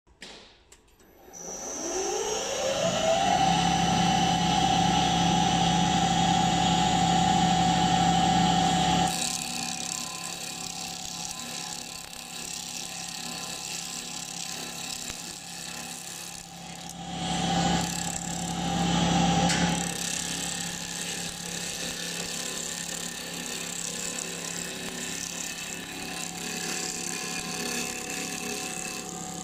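Mini benchtop CNC wood lathe: the spindle motor whines up in pitch over about two seconds and then runs steadily. About nine seconds in the sound turns quieter and rougher, the tool working the wood, with two louder swells a little past the middle.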